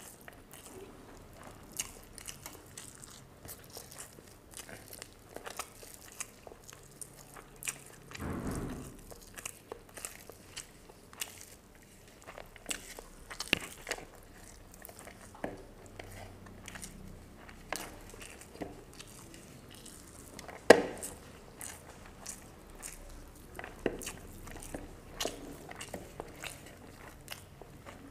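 Close-up eating sounds of fried surma fish eaten by hand: chewing and crunching with many small sharp crackles. One much louder crack comes about twenty seconds in.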